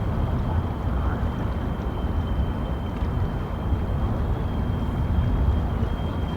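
Night-time city street ambience: a steady low rumble of traffic, with a faint thin high whine held throughout.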